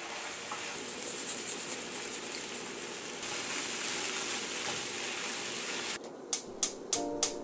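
Fish cake strips, onion and carrot sizzling in a frying pan as a spatula stirs them, with small scraping clicks. About six seconds in, the sizzling cuts off and strummed acoustic guitar music begins.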